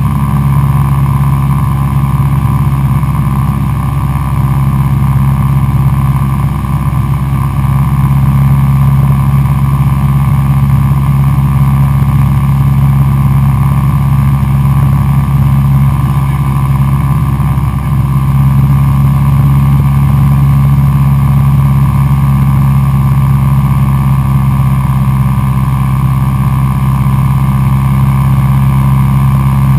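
Cessna 172SP's four-cylinder Lycoming engine and propeller running at a steady, loud drone in flight, with a slight waver in the tone partway through.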